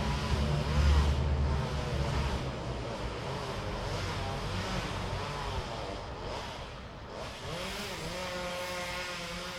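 Motorized machinery running, its engine revving up and down repeatedly. A deep engine rumble is strong in the first second and a half and then eases.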